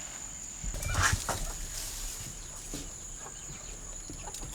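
Domestic fowl clucking in a short flurry about a second in, over a steady high-pitched insect buzz.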